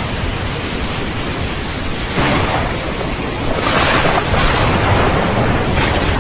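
Steady rain with thunder rumbling low underneath, swelling louder about two seconds in and again at about four seconds.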